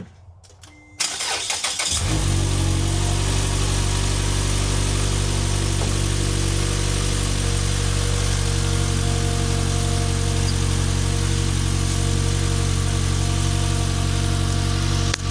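Mazda 6 engine cranked by the starter and catching about a second in, then settling into a steady idle.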